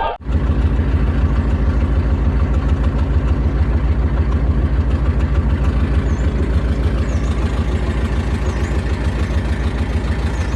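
Vehicle engine running steadily at low speed, with a low, even throb that does not change in pitch or level.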